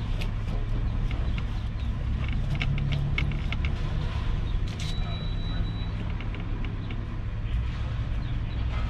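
Lexus LS400's V8 engine running low and steady, heard from inside the cabin as a constant rumble. Small scattered clicks sound over it, and a short faint high tone comes about five seconds in.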